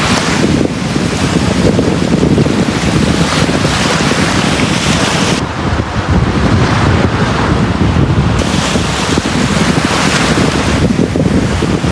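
Sea waves breaking and washing onto a beach, a continuous rushing surf that swells and eases. About halfway through, the hiss turns duller for a few seconds.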